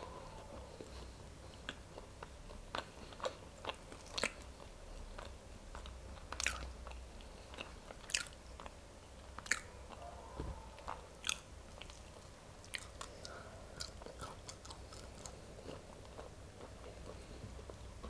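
Close-miked chewing of boiled velvet beans (Mucuna), dense and chewy, with irregular sharp mouth clicks and smacks.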